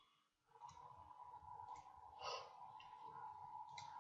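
Near silence: faint microphone hiss with a faint steady hum, and a soft breath near the microphone about two seconds in.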